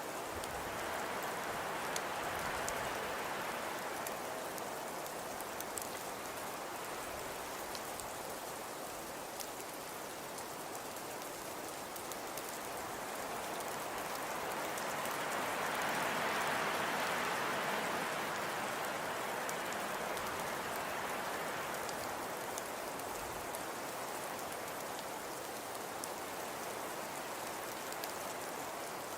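Fireplace crackling: a steady soft hiss with scattered small pops, swelling for a few seconds in the middle and then easing.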